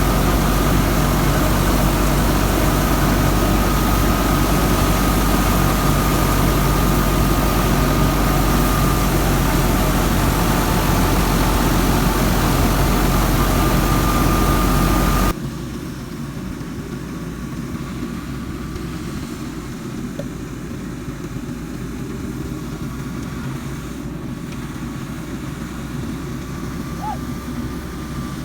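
Tractor engine running steadily at an even pitch, with a thin high whine above it. About fifteen seconds in, the sound drops suddenly to a quieter, steadier engine drone.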